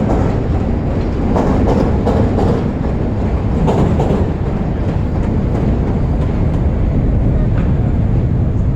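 Chicago 'L' elevated train passing overhead on its steel structure: a steady heavy rumble, with the wheels clacking over rail joints through the first four seconds or so.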